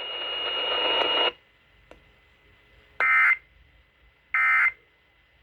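Weather radio hiss with a steady high tone that cuts off about a second in. Then come two short, identical buzzy data bursts a little over a second apart: the SAME digital end-of-message code that closes the tornado warning broadcast.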